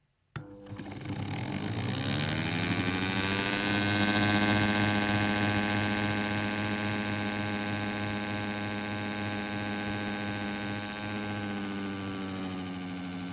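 An engine starting: a sudden knock, then a drone that rises in pitch over a couple of seconds as it spins up and settles into steady running with a throbbing low note.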